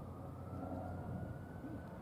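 A fire engine's siren wailing faintly, its pitch rising slowly, over a low engine and traffic rumble.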